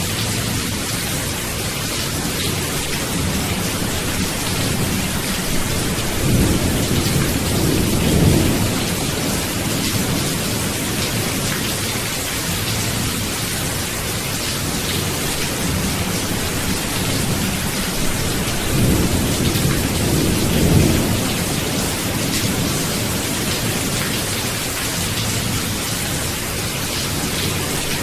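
Steady heavy rain hissing, with low thunder rumbling up and fading twice, about twelve seconds apart.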